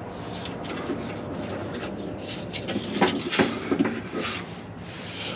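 Irregular clicks, taps and rattles of a hand working among wiring and connectors up under a car, over a steady background rush, while feeling for a bad connector behind a no-start.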